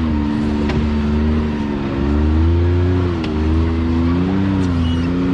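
Side-by-side UTV engine running on the trail, its pitch wavering up and down with the throttle as it climbs over a hill, with a low rumble underneath and a few faint ticks.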